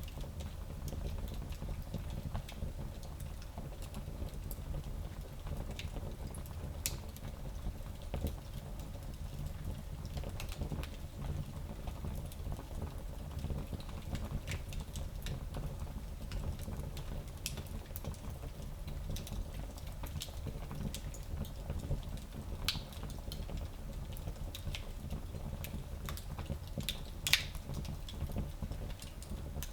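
Wood fire burning in a small fireplace: a steady low rumble with scattered crackles and pops, one sharper pop near the end.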